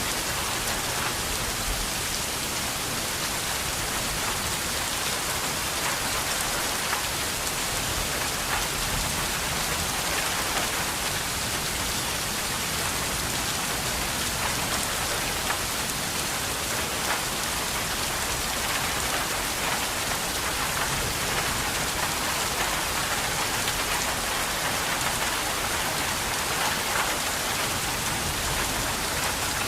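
Steady rain falling on a hard surface, an even hiss dotted with faint individual drop ticks.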